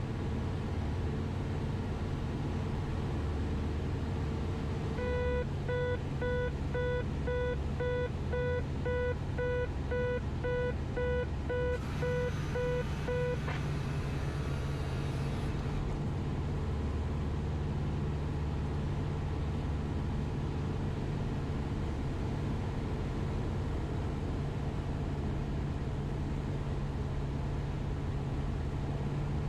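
Cessna 172RG's four-cylinder Lycoming engine droning steadily in the cockpit. For about eight seconds in the middle a warning tone beeps through the headset, about two beeps a second, then stops.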